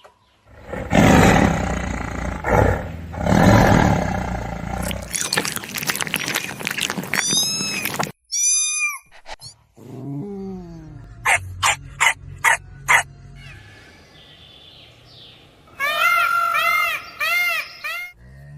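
Calls from several different animals in succession: a loud, rough roar-like growl for the first few seconds, then bursts of high, arching chirps and squeals, and another run of quick repeated calls near the end.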